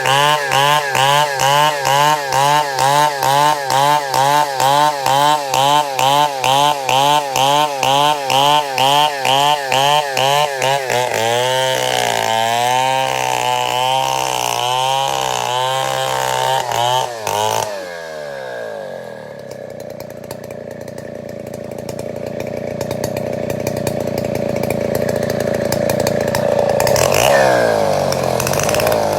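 Two-stroke chainsaw cutting through wood at high revs, its pitch wobbling about twice a second under the load. A little past halfway the pitch falls as the throttle is let off, and it runs slower before revving back up near the end.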